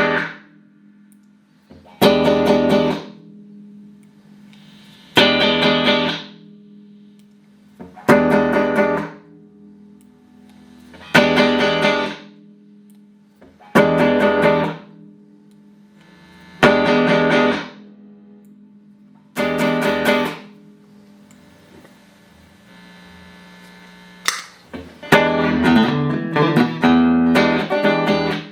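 Clean electric guitar played through a Boss GE-7 equalizer pedal into Roland JC-120 amplifiers. Single strummed chords come about every three seconds, each cut short after about a second, with a low tone held between them; near the end the playing turns to quicker, busier chords.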